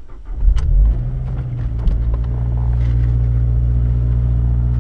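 2013 Mazdaspeed 3's 2.3-litre turbocharged four-cylinder engine starting up: it catches about a third of a second in, flares briefly, then settles into a steady idle.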